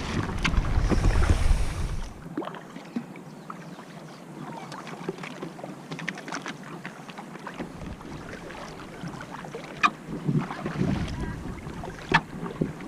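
Water splashing and dripping around a sea kayak being paddled, with many small sharp splashes. Wind buffets the microphone for the first two seconds, and there is another low surge about ten seconds in.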